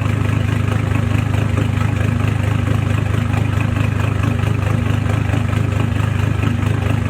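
Mitsubishi Triton L200 diesel engine idling steadily, still cold, through a 3-inch Rhino exhaust with the cat and no muffler.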